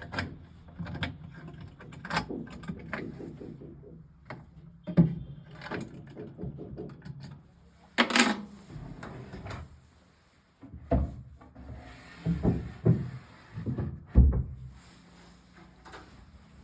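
Wooden wardrobe drawers and doors being slid, opened and shut: an irregular run of wooden knocks, clicks and rubbing strokes, the loudest a sharp clack about eight seconds in.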